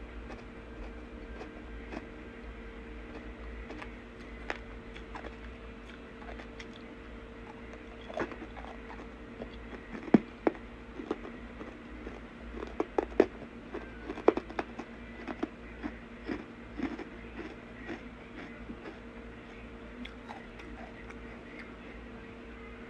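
A person chewing and crunching dirt close to the microphone: a run of sharp crunches, densest and loudest between about ten and fifteen seconds in, over a faint steady hum.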